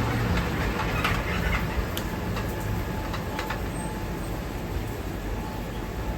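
Ramen shop kitchen ambience: a steady low rumble with a few light clinks and knocks of kitchen utensils.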